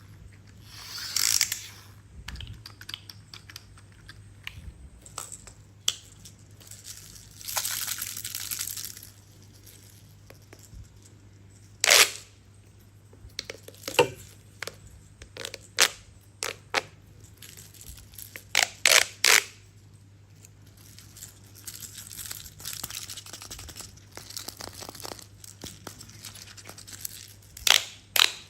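Plastic toy pieces being handled: scattered sharp clicks and knocks, with a few short stretches of rustling between them.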